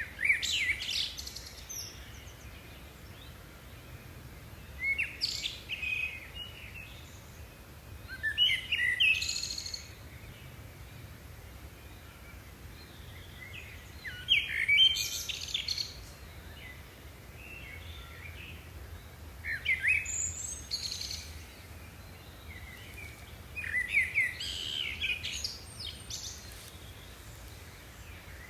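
Bird song: short chirping phrases, each about a second long, repeating every four to six seconds over a faint steady low hum.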